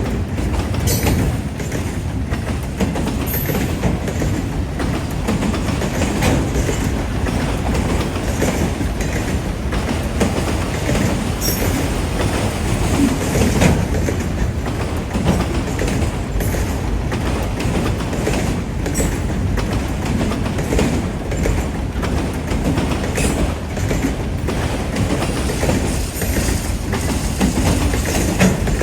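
Freight cars of a Chicago, Fort Wayne & Eastern train rolling steadily past, their wheels clacking over the rail. A brief high wheel squeal cuts in now and then.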